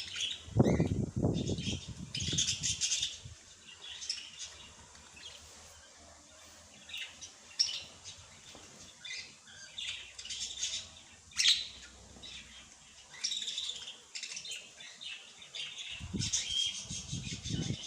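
Small songbirds chirping and twittering in quick, repeated high calls. Louder low rustling comes in bursts near the start and again near the end, and there is one sharp click in the middle.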